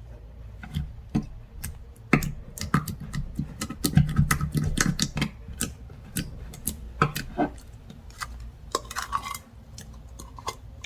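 Slime being squished and poked by hand, giving a dense run of sticky clicks and pops, busiest in the first half.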